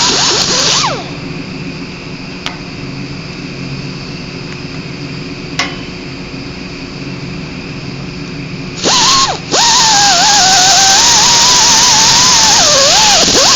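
Handheld power sander grinding on the steel motor frame around a bolt hole, cleaning off old silicone and dirt. It stops about a second in, leaving a quieter steady hum with two sharp clicks, then starts again near nine seconds, cuts out for a moment and runs on loud, its whine wavering in pitch as it is pressed into the metal.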